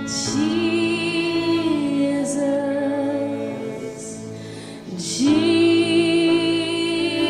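Worship music: a woman singing long held notes over sustained keyboard chords, two phrases, the second starting about five seconds in.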